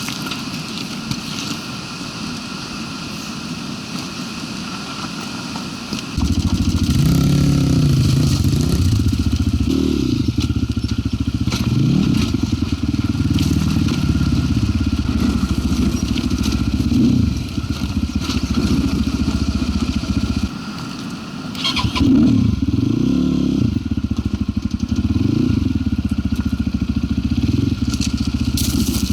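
Zuum NC300 enduro motorcycle's single-cylinder engine riding a rough trail. It runs low and even for the first six seconds, then opens up and revs up and down again and again, with a short drop about twenty seconds in before it revs on.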